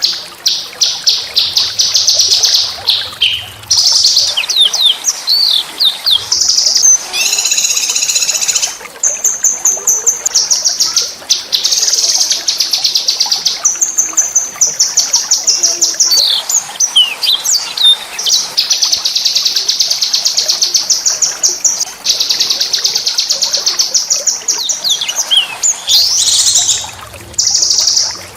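A small songbird singing loud, fast trills of rapidly repeated high notes, broken by short sweeping whistles and a buzzier phrase, with only brief pauses between phrases.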